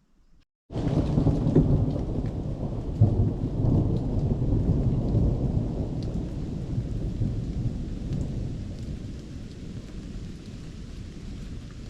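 A rumble of thunder starting abruptly about a second in and slowly dying away, with steady rain falling throughout.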